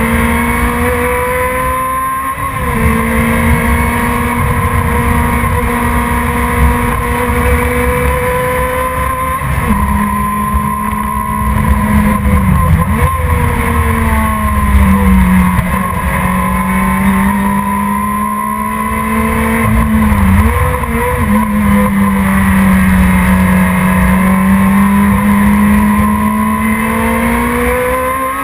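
Production sports car's engine running hard at high revs, one continuous note that dips briefly and climbs back several times as the car lifts or changes gear through corners.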